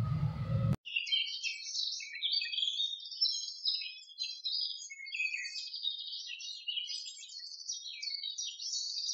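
Birds chirping and twittering in a busy chorus of quick, overlapping high-pitched chirps, starting abruptly about a second in, right after a low background sound cuts off.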